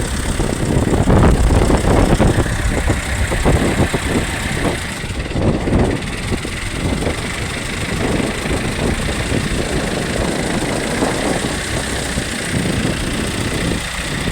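Fishing boat's engine running under way at sea, with wind buffeting the microphone in irregular gusts.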